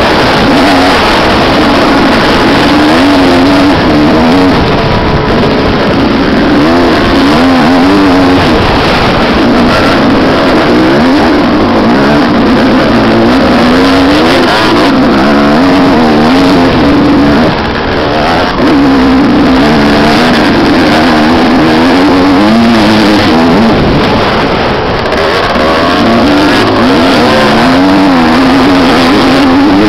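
Motocross motorcycle engines revving hard, the engine note rising and falling over and over as the bikes accelerate and back off. Loud throughout.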